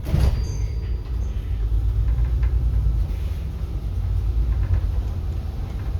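Inside a moving city bus: steady low rumble of the engine and road, with a single knock right at the start.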